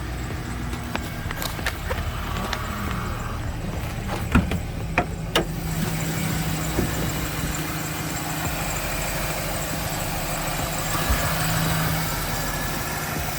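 A 2009 Chevy pickup's 5.3-litre V8 idling steadily, with a few sharp knocks a little over four to five seconds in.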